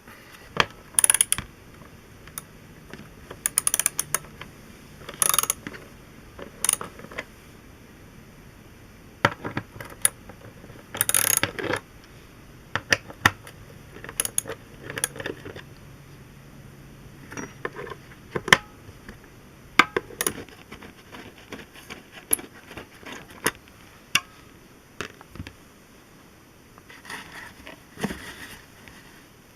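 Hand tools working the screws and bolts out of a chair's seat and pedestal: irregular bursts of mechanical ratcheting and clicking with scattered clinks of metal parts.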